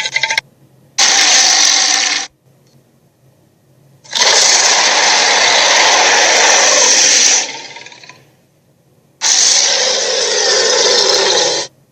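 Dragon sound effects: a series of rough, noisy roars. There is a short one about a second in, a long one from about four to seven seconds that trails off, and another near the end.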